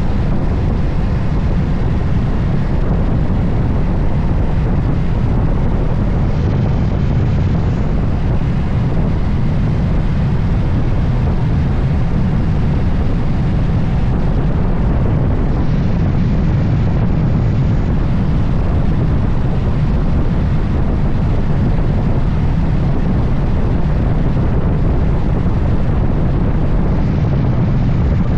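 Steady loud wind rush over the microphone of a motorcycle riding at speed, with the bike's running and road noise underneath.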